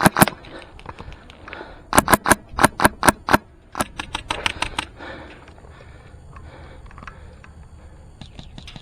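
Airsoft rifle with an HPA Fusion Engine firing in quick strings of shots: a string of about six shots a quarter second apart about two seconds in, then a faster burst of about eight shots near the five-second mark, after which it stops.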